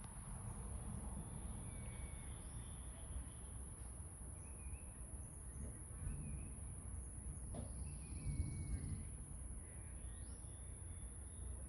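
Outdoor ambience: a steady low rumble, a constant high-pitched buzz, and scattered short bird chirps.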